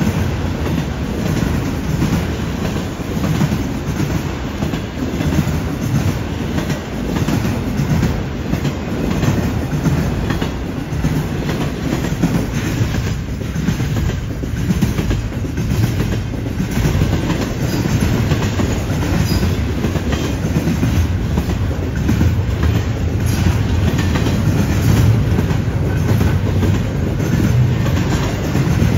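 Freight train cars rolling steadily past close by, with a constant deep rumble of steel wheels on rail and irregular clacking as the wheels cross the track joints. Autorack cars give way to double-stack container cars about halfway through.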